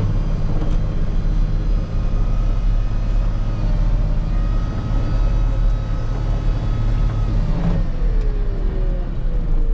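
Wheel loader's diesel engine running steadily under load with a thin whine. Near the end a tone falls in pitch as the engine eases off.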